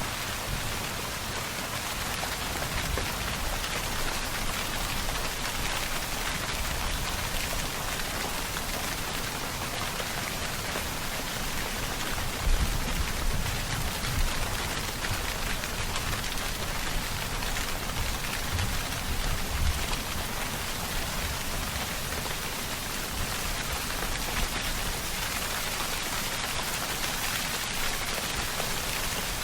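Steady, dense rainfall hissing evenly, with drops pattering on a surface. A few brief low rumbles rise above it about halfway through.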